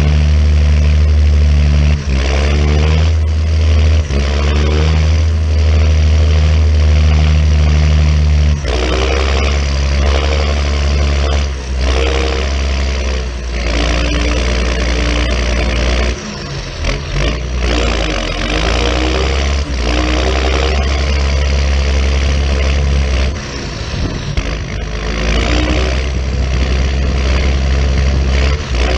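John Deere 6920 tractor's six-cylinder diesel engine running loudly, holding a steady speed for the first eight seconds or so, then revving up and down repeatedly.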